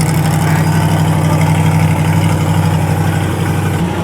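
A vehicle engine idling steadily, its low tone shifting slightly near the end.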